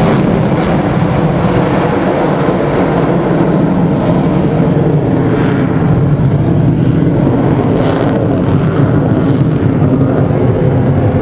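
F-35C Lightning II's Pratt & Whitney F135 jet engine running loud and steady, a dense rush of noise with a low hum of several steady tones.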